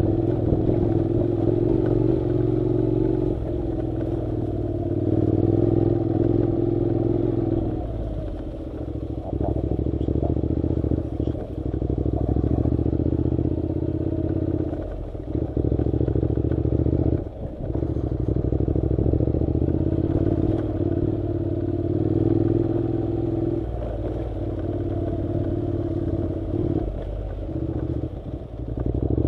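Honda NC700 motorcycle's parallel-twin engine running steadily under way on a dirt road, its sound dropping off briefly several times as the throttle eases.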